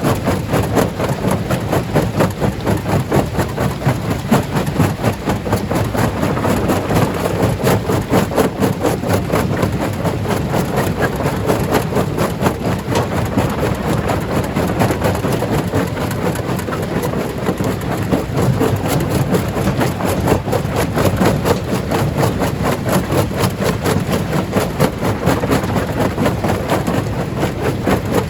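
Stone crusher running under load: a continuous dense clatter and crunch of rock being broken, over the steady drone of heavy machinery.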